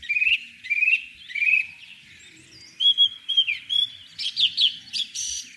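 Birds chirping: three short trilled phrases, then a run of whistled notes and quick chirps toward the end.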